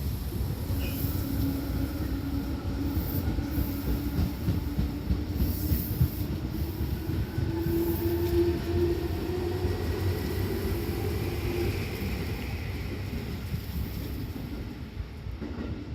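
Tobu Tojo Line electric train moving through the station. Its wheels rumble on the rails while a motor whine rises slowly in pitch as it gathers speed, and the sound fades near the end.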